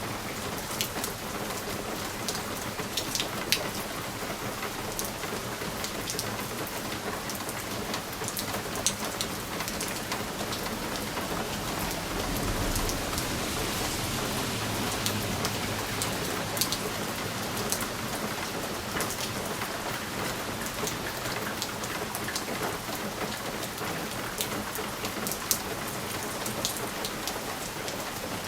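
Steady rain pattering on a window pane, with frequent sharp drop ticks over an even hiss. About halfway through, a low rumble swells for a few seconds and fades.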